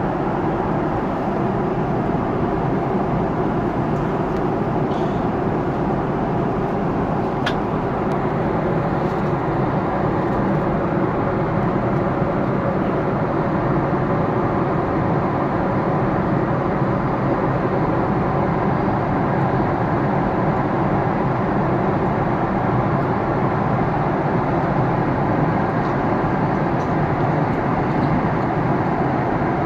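Steady, even cabin drone of a Boeing 777-300ER airliner in flight: engine noise and airflow around the fuselage, with one faint click about seven seconds in.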